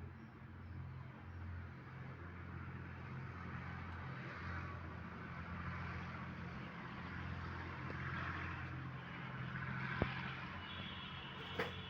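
Vehicle noise: a steady low hum with a hiss that swells and fades, and two sharp clicks late on.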